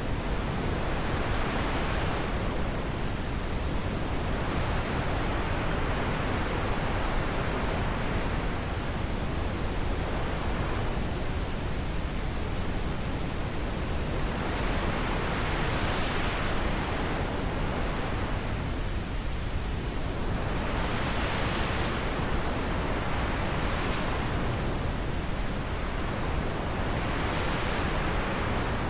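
Steady wind noise, with gusts that swell and fade in the hiss every few seconds.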